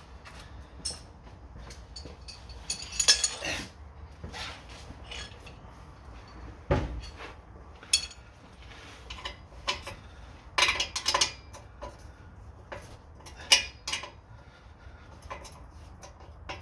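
Irregular metallic clinks and knocks of hand tools on the exhaust back box's bolts and nuts while they are being undone.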